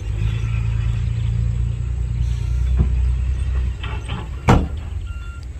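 Heavy diesel engine of earthmoving machinery running steadily at a low rumble. A short knock comes near the middle, and a louder clank or bang about a second later.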